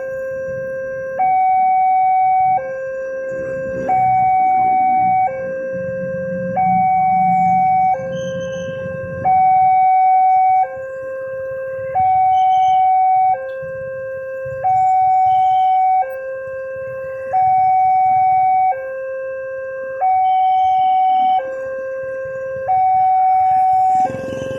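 Railway level-crossing warning alarm sounding: an electronic two-tone signal alternating steadily between a low and a higher note, each note held just over a second.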